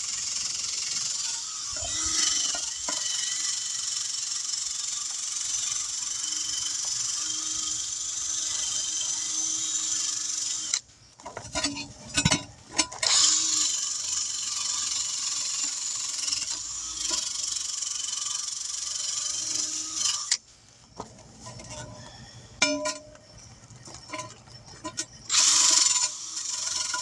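Wire brush on a power drill scrubbing rust and old rubber off a wheel rim's bead seat, a steady scraping hiss. It stops for a couple of seconds with a few clicks and starts again, then gives way to scattered clicks and one short burst of brushing near the end.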